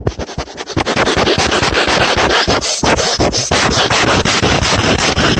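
Loud, rapid scratching or scraping right at the microphone, many strokes in quick succession with no pause.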